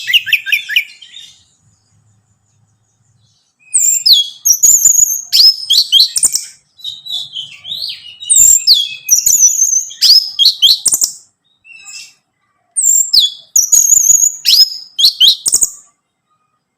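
Orange-headed thrush singing: a long run of quick, varied high whistled phrases and trills, after a pause of about two seconds near the start.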